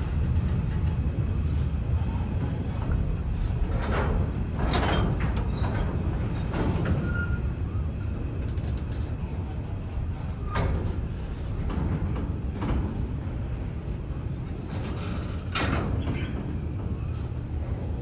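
Train rolling along the track: a steady low rumble with a few sharp metallic clicks and squeaks from the wheels and couplings.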